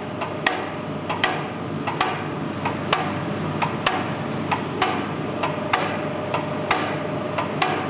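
D49 locomotive diesel fuel injector being tested on a hand-pumped injector test stand: a sharp click about every three-quarters of a second over a steady hiss. The injector's opening pressure and spray are within spec.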